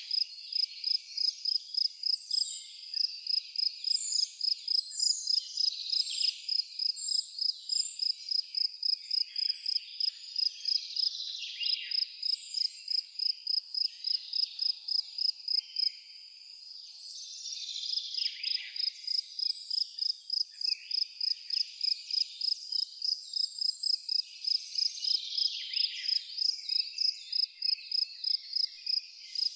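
An insect chirping in a steady high-pitched rhythm of about three chirps a second, pausing once for a second or so about halfway through, with scattered bird chirps above it.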